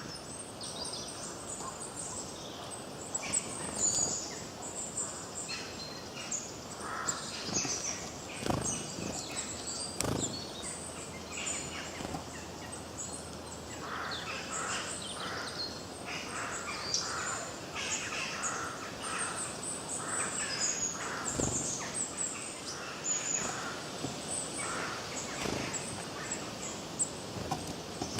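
A chorus of forest birds singing and chirping, many short overlapping calls and trills at once over a faint background hiss, with a few brief knocks.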